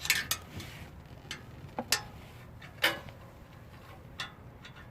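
Several sharp, irregularly spaced taps of a hard tool against epoxy putty that has set hard over an exhaust leak.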